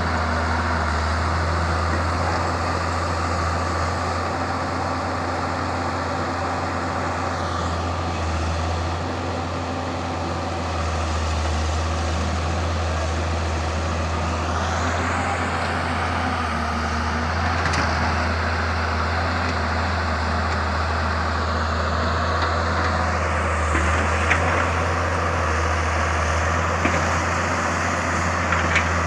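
Samsung excavator's diesel engine running steadily while it works, its low hum dipping slightly about ten seconds in, with a few faint knocks near the end.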